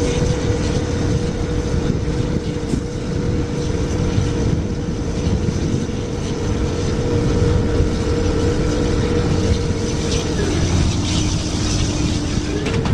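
A motor engine running at steady high revs, its pitch holding level, then falling away about ten seconds in, over a heavy low rumble.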